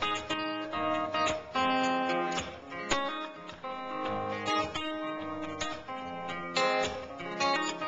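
Acoustic guitar playing an instrumental passage: chords strummed and notes picked in a steady rhythm, with no singing.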